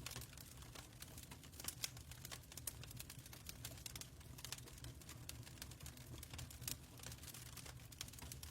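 Wood fire crackling: irregular sharp pops and snaps of varying strength over a low steady rumble.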